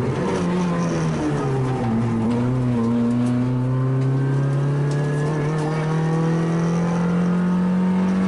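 A Junior 1000 class rally car's small engine, heard from inside the cabin. Its note falls over the first couple of seconds as the car slows, then climbs slowly and steadily under throttle for the rest.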